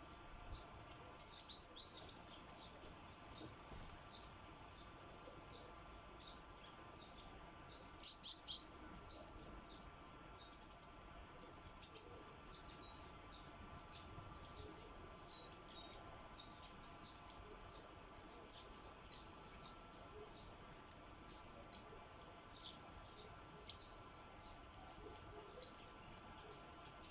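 Sparrows chirping at a bird feeder: short, high chirps scattered throughout, with louder bursts of calls about a second and a half in, around eight seconds, and twice around eleven to twelve seconds.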